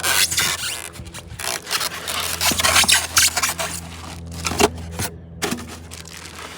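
Packing materials and parts scraping and rubbing in a shipping box as it is unpacked by hand, in short irregular strokes over a steady low hum.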